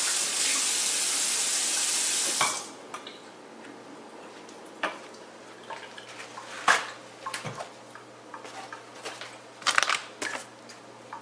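Kitchen tap running, rinsing the reusable K-Cup filter, then shut off about two and a half seconds in. After it, scattered light clicks and knocks of plastic parts and dishes being handled.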